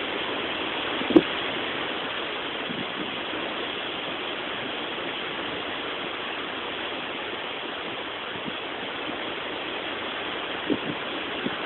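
Steady rushing outdoor noise of a thunderstorm, wind on the microphone, with one short knock about a second in.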